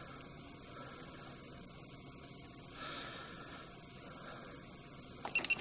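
Faint steady electrical hum, with a few sharp clicks and two short high beeps near the end.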